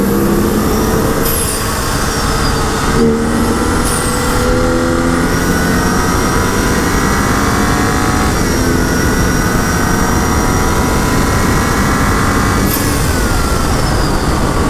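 2011 BMW 135i's tuned turbocharged inline-six pulling hard under full throttle, its revs climbing steadily, with upshifts about eight and about thirteen seconds in, over road and wind noise.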